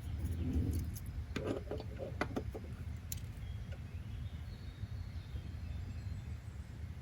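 Steady low ambient rumble, with a quick run of light clicks and knocks about a second and a half in, and a faint high chirp near the middle.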